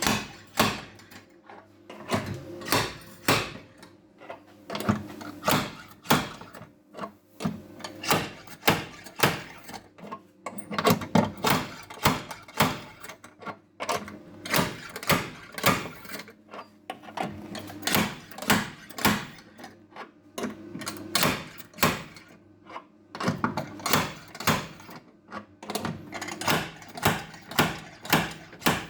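An irregular series of sharp knocks and taps, a few a second, over a steady low hum.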